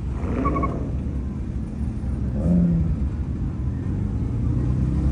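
Car engine running with a steady low rumble, and a brief voice about half a second in.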